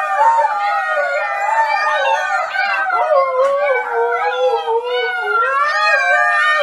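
An adult husky and a litter of husky puppies howling together, several wavering howls overlapping without a break.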